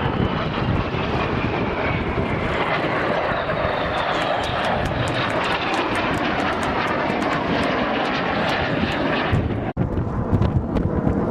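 Fixed-wing aircraft engine noise as a plane flies past, with a high whine falling slowly in pitch over the first few seconds. The sound breaks off for an instant about ten seconds in.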